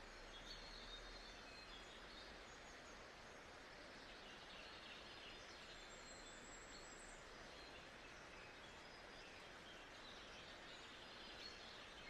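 Faint nature-sound ambience: a steady even hiss with scattered faint bird chirps.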